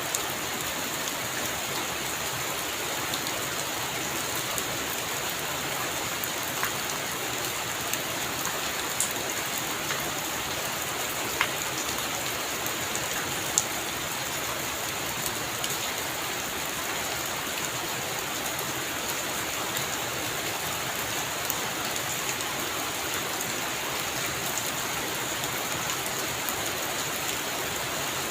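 Heavy rain falling steadily on a roof, an even hiss with a few sharper drop ticks scattered through it.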